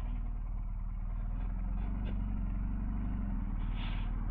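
BMW R1250GS Adventure's boxer-twin engine running steadily under way, with road and wind noise, and a short hiss near the end.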